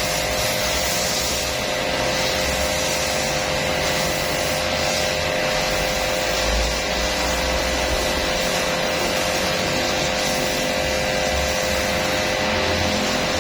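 A washing machine running steadily, with a constant hum and a hissing, spray-like rush.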